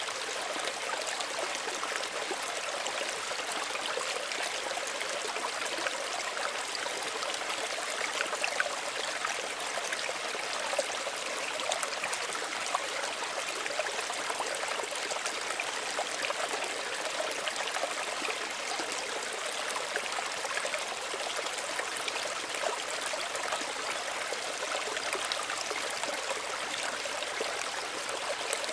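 Small stream running: a steady, gentle babble of water, with small splashes and trickles scattered through it.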